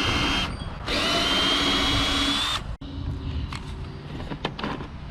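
Power drill with a socket driving out a 10 mm bolt from the mower's housing: the motor whines in two runs, the first stopping about half a second in and the second lasting under two seconds with its pitch creeping up. After it stops come a few light clicks and knocks of parts being handled.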